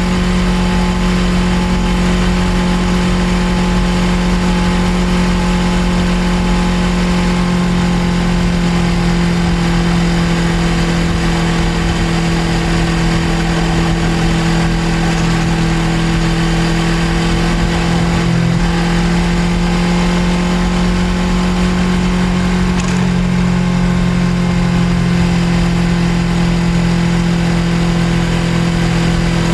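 Suzuki GSX250R parallel-twin engine running steadily while riding, heard from the bike itself, with wind and road noise. The engine note holds nearly constant, shifting slightly in pitch about two-thirds of the way through.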